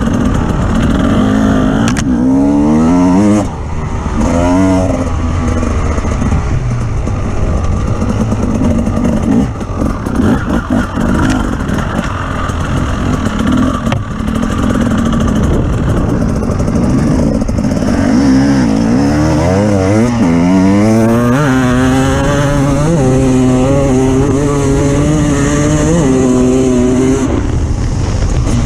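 Off-road vehicle engine revving under load with rough mechanical noise. Its pitch climbs twice in quick succession about three seconds in, and again after about eighteen seconds. It then holds a higher, fairly steady speed in steps until near the end.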